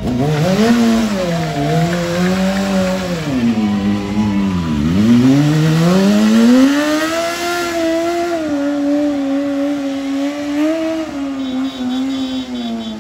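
BMW S1000R's inline-four engine revving hard through a stunt and drift run. The revs fall sharply about five seconds in, then climb back and are held high, over a hiss of rear-tyre noise.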